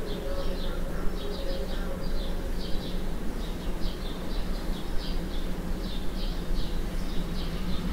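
Small birds chirping outside a window, short high chirps repeated about twice a second without a break, over a steady low hum.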